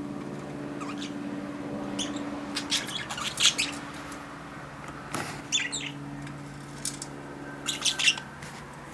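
Pet budgerigar chirping and chattering in short bursts of quick high chirps: a cluster about three seconds in, another around five and a half seconds, and another near eight seconds, over a faint steady low hum.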